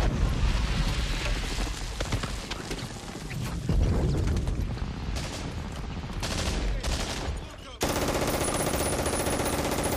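War-film battle soundtrack: dense gunfire with rapid machine-gun bursts and rifle shots cracking over a rumbling din. The gunfire cuts off abruptly about eight seconds in, giving way to a steadier sound with held tones.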